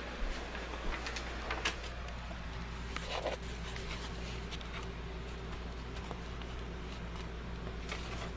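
A few light clicks and knocks from things being handled, over a steady low hum.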